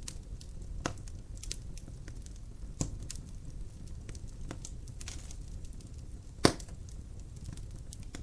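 Wood fire crackling in a fireplace: scattered sharp pops and snaps over a low steady rumble, the loudest pop about six and a half seconds in.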